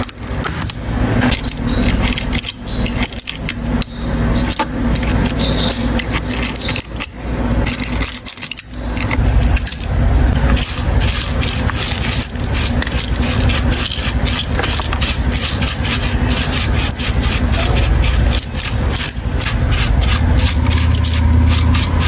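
Rapid, repeated rubbing and scraping strokes, faster and more even in the second half, over a steady low hum.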